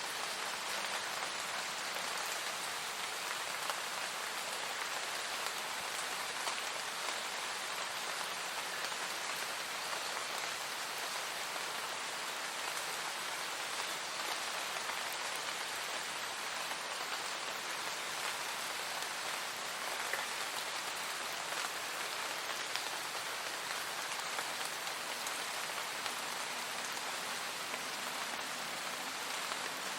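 Steady, even rain falling, a dense hiss of drops with a few louder single drop ticks now and then.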